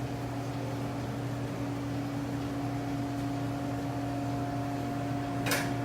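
Steady hum of restaurant kitchen equipment, several constant tones over a fan-like hiss, with one brief sharp sound near the end.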